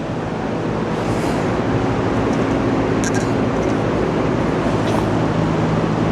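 Steady machine hum with a constant low drone, and a few faint light clicks of parts being handled about three seconds in.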